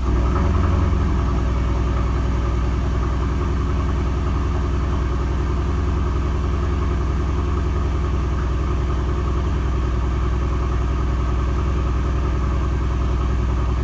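Mercedes-AMG GLC 63 S engine at cold-start idle with its exhaust valves open, heard from inside the cabin: a deep, even rumble, a little louder in the first second as the start-up flare settles.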